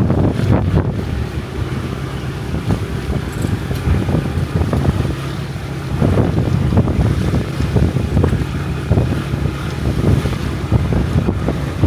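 Loud wind buffeting the microphone over a steady vehicle rumble, as heard riding on a motorbike through traffic.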